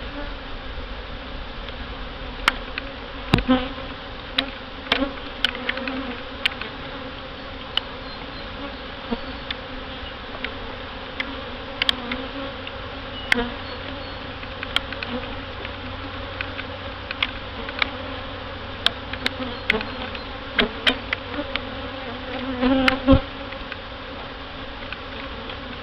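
Honey bees buzzing around an open hive in a steady, wavering drone, with scattered sharp ticks and knocks throughout and a louder cluster of knocks near the end.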